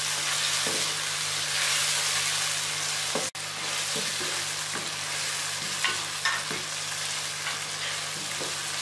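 Chicken pieces frying in hot oil with onion and tomato in a karahi: a steady sizzle, with light scrapes and knocks from a wooden spatula stirring against the pan. The sound briefly cuts out about a third of the way in.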